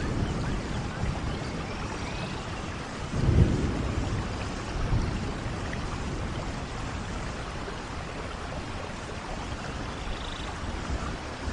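Steady rain falling, with low rolls of thunder: the loudest rumble swells a little over three seconds in and a smaller one follows about a second and a half later.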